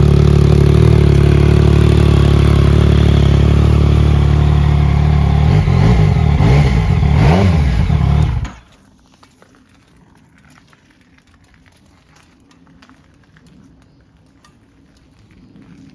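2018 Yamaha MT-09's three-cylinder engine idling steadily, then revved twice with rising and falling sweeps, then cut off suddenly about eight and a half seconds in. After that only a low background with faint scattered clicks remains.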